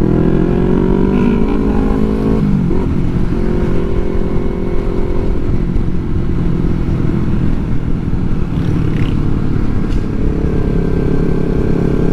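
Yamaha R3's 321 cc parallel-twin engine under way: it rises in pitch as the bike accelerates, drops suddenly at an upshift about two and a half seconds in, then runs steadily, picking up slightly again near the end.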